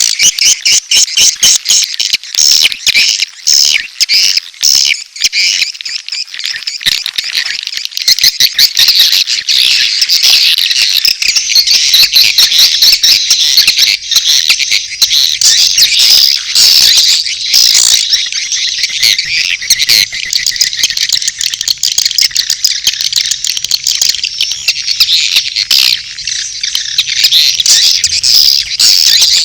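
Swiftlet calls played back as a bird-house lure track: mating calls mixed with chick calls, a dense, unbroken chatter of high chirps and rapid clicks.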